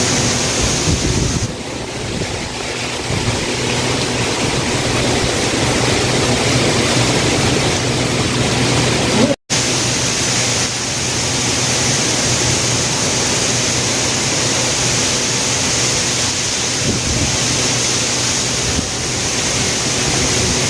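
Heavy rain falling steadily, a dense even hiss with a faint low hum underneath; the sound cuts out for an instant about nine seconds in.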